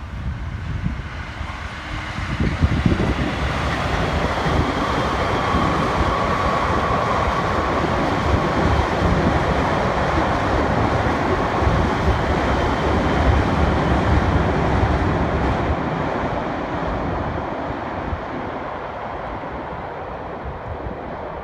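Electric train running on the rails with a steady rumble that swells about two seconds in and fades away over the last few seconds.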